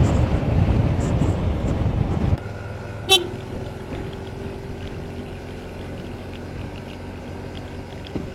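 Motorcycle under way, its engine and road noise steady, then dropping suddenly to a quieter engine hum about two seconds in. Shortly after, a single short horn toot.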